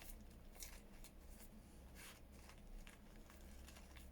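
Near silence with a few faint, short rustles of paper being handled, against a low steady room hum.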